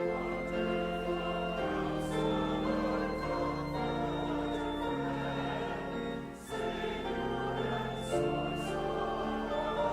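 Choir singing slow music with long held chords, with a short break between phrases about six and a half seconds in.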